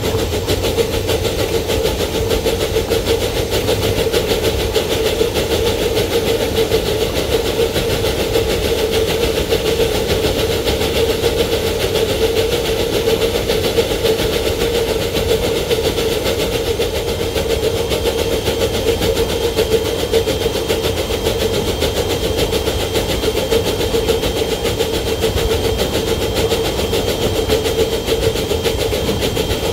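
Small-gauge locomotive running steadily along the rails, a continuous engine drone with low rumbling wheel and track noise. A faint, steady high whine joins about halfway through.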